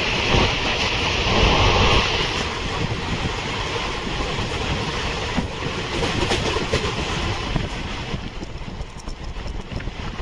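Express train running on the rails: a steady rumble with wheel clatter. A louder rushing hiss in the first two seconds settles to a quieter run after about eight seconds.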